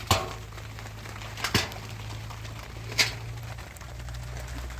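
Three sharp knocks, about a second and a half apart, the middle one a quick double, over a steady low hum.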